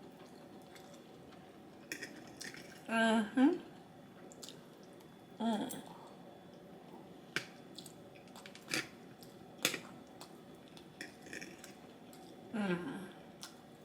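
Close-up eating sounds: chewing and lip smacks with a scatter of sharp clicks and taps from the food container, broken by three short hummed "mm" sounds of enjoyment.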